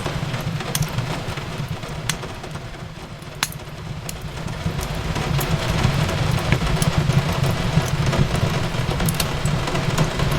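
Wood fire crackling in a fireplace, with scattered sharp pops over a steady low rumble, and rain falling on a window.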